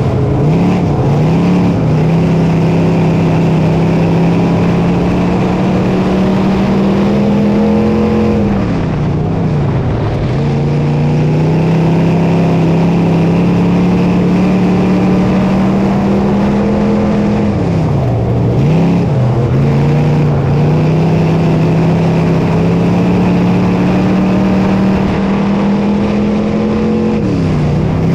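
Dirt modified race car's engine running hard at a steady pitch, dropping sharply and climbing back three times, about every nine seconds, as the throttle is lifted for the turns and reopened.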